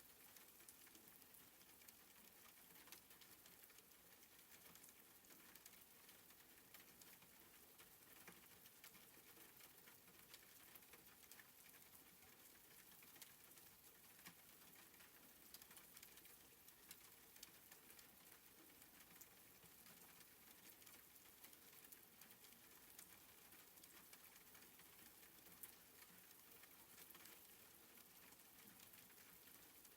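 Faint soft rain: a steady hiss scattered with small, irregular ticks of drops.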